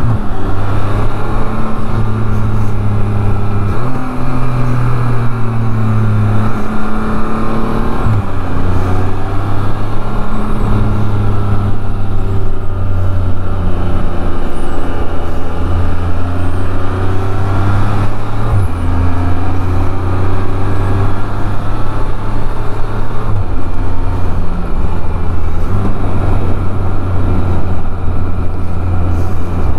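Can-Am Spyder three-wheeled motorcycle's engine under way on the road, its pitch stepping up and down several times with gear changes and throttle, over a steady rush of wind noise.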